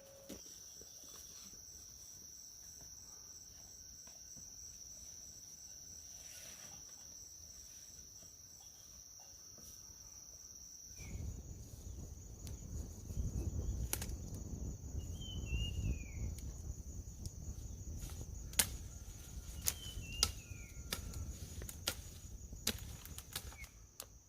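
Crickets trilling steadily at a high pitch. From about halfway, low rumbling noise and scattered sharp clicks join in, with a bird giving two short falling chirps.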